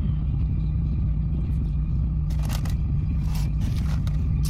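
Steady low rumble of a car's interior, with a few short rustling scrapes about halfway through and near the end.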